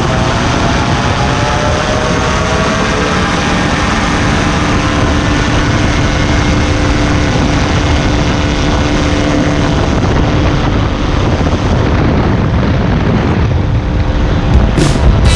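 Weight-shift trike light sport aircraft's engine and propeller running loud under a heavy rush of noise. The pitch rises over the first few seconds as the engine speeds up, then holds steady. A few sharp knocks come near the end.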